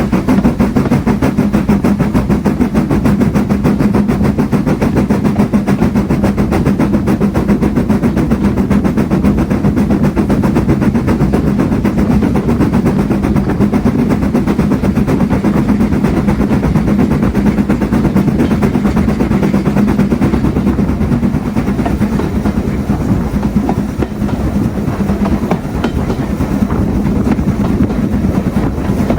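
A steam-hauled train running steadily, heard on board: a continuous loud rumble and drone with wheels clicking over the rail joints.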